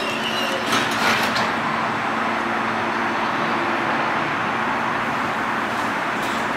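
CTA 'L' train standing at the platform, its onboard equipment giving a steady hiss and low hum, with a few clunks about a second in.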